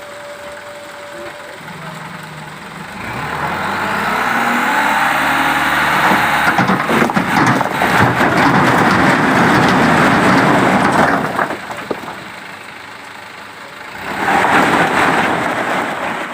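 A dump truck's engine revs up with rising pitch as the hydraulic hoist tips the bed. A load of stones then slides out with a long, loud rushing clatter lasting about five seconds. Near the end there is a second, shorter burst of noise.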